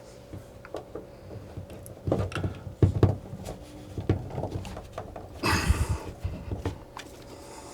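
Knocks and clicks of hands working on CPVC pipe and fittings, with a cluster of louder thumps about two to three seconds in and a brief rushing noise a little past halfway.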